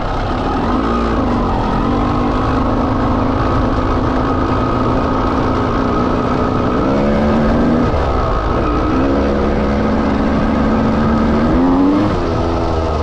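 1989 Honda CR250 two-stroke single, big-bored to 310cc, running under way with the rider on the throttle. The engine note holds steady, then the revs climb and fall twice, about seven seconds in and again near the end.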